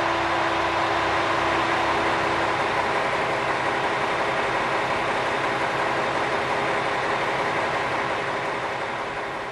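KiHa 120 diesel railcar running, its engine drone and running noise steady and then fading near the end as it moves away.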